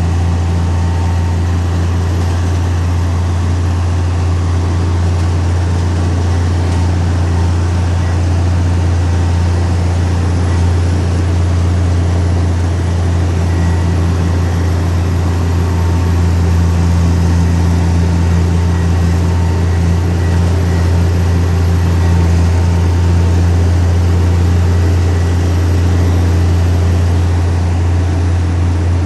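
Heavy diesel engine of earthmoving machinery running steadily with a deep, unchanging drone.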